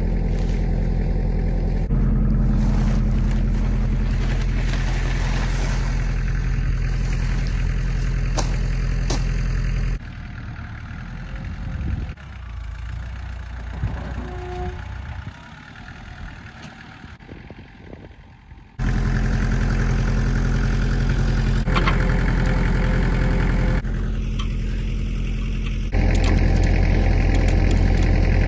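A motor vehicle's engine running steadily at a low, even speed. It drops away to a much quieter stretch for several seconds near the middle, then comes back just as strong.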